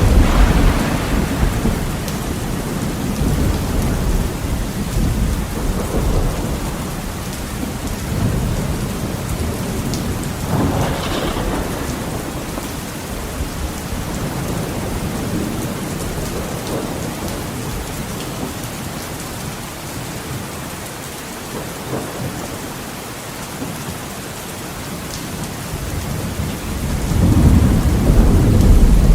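Heavy rain on a window, a steady patter, with rolling thunder. A low rumble fades over the first couple of seconds, fainter rumbles come and go, and a loud rumble builds near the end.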